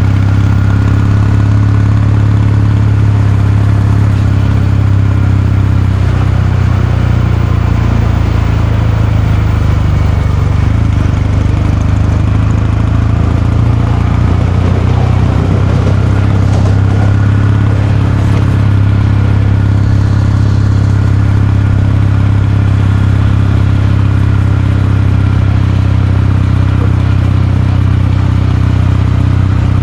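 Kawasaki Meguro K3's parallel-twin engine and exhaust running steadily on the move, with a brief easing of the engine note about a third of the way through.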